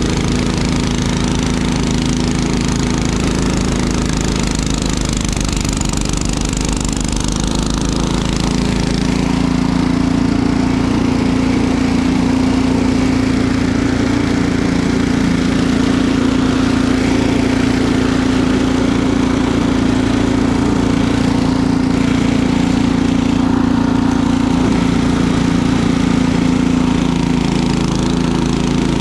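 Small engine running steadily. Its note becomes stronger and steadier about nine seconds in and eases slightly near the end.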